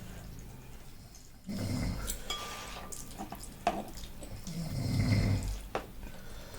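Eating sounds up close: chewing and slurping swelling twice, with utensils clinking against dishes a few times.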